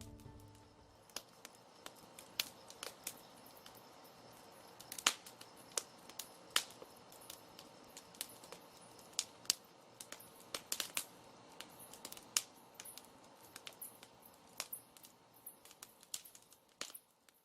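Irregular light clicks and taps from small craft materials being handled and set down on a work surface, over a faint room hiss.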